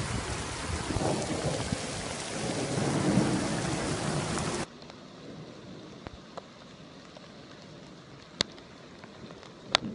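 Heavy rain falling with a low rumble. It cuts off abruptly about halfway through, leaving a much quieter patter broken by a few sharp ticks.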